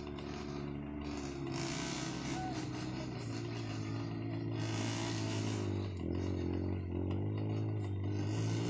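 Dirt bike engine running and being revved on a steep uphill trail, with a rougher, noisier burst of throttle twice. Its pitch dips and climbs again in the last few seconds.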